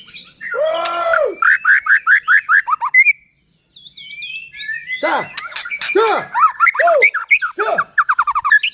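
White-rumped shama (murai batu) singing hard: loud, fast runs of repeated sweeping notes and a varied song. The song breaks off for half a second about three seconds in.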